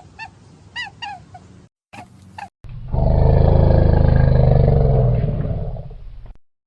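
A few short, high cat meows, then after a brief cut a big cat's loud, low roar lasting about three and a half seconds, fading near the end before it cuts off.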